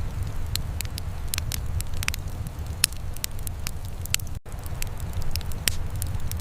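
Wood fire burning in a fireplace: irregular sharp crackles and pops over a steady low rumble, with a momentary dropout about four and a half seconds in.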